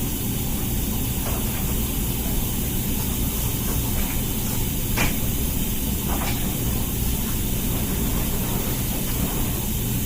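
Comfee dishwasher running a hygiene wash cycle: a steady hum with water spraying inside the tub. A few short clicks stand out, the clearest about halfway through.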